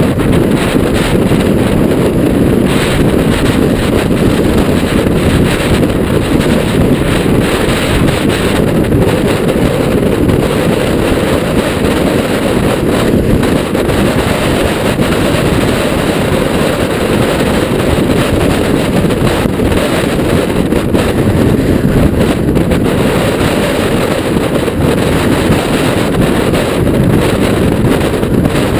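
Strong wind, gusting above 30 mph, buffeting the microphone as a loud, steady low rumble.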